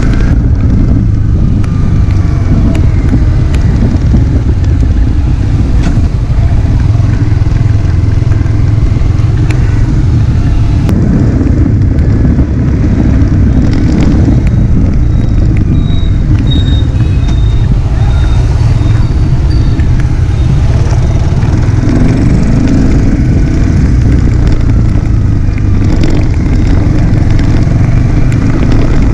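Yamaha R15 V3's single-cylinder 155 cc engine running steadily while the motorcycle is ridden, a continuous low rumble.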